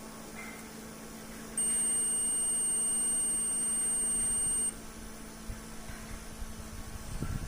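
A steady, high-pitched electronic beep, held for about three seconds, starts about one and a half seconds in and cuts off suddenly, over a faint steady low hum.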